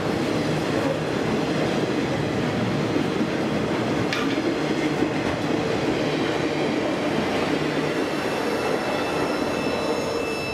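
Freight cars of a maintenance-of-way train, loaded with rail, rolling past close by: a steady rumble and clatter of steel wheels on the track. A thin, high wheel squeal comes in near the end as the last car passes and the sound begins to fade.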